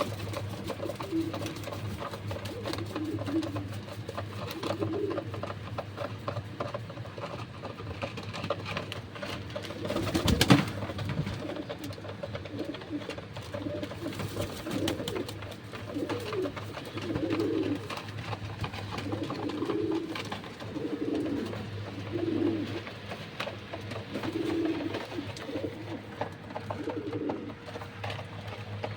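Domestic pigeons cooing, one low coo after another every second or two, in a small enclosed space, with scattered clicks and a brief louder noisy rustle about ten seconds in.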